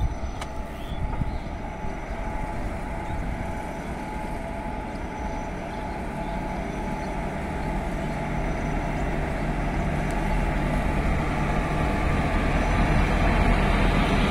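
Indian Railways WAG-5 electric locomotive approaching and passing at the head of a train of empty freight wagons: a steady rumble of wheels on rail with a hum, growing louder as it nears.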